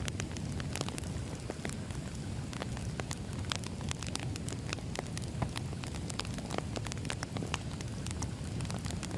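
Firewood burning: a steady low rumble of flames with frequent sharp, irregular crackles and pops from the logs.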